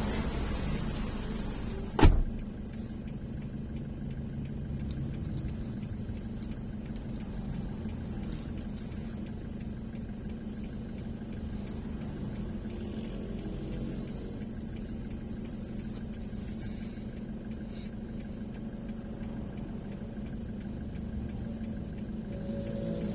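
Steady low drone of a car's engine and road noise while driving, with one sharp knock about two seconds in.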